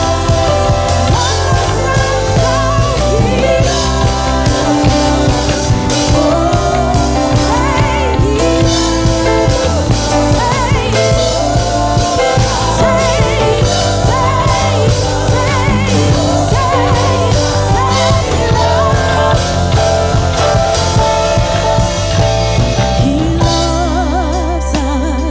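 Worship song with singers over a band with bass and drums. Near the end the drums drop out and the voices continue over a held chord.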